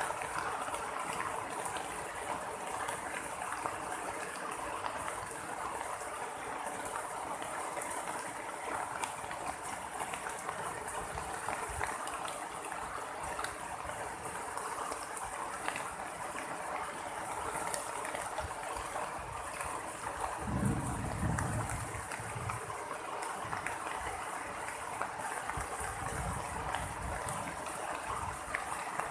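Heavy rain pouring steadily. About two-thirds of the way through, a low rumble of thunder swells and fades over a second or two.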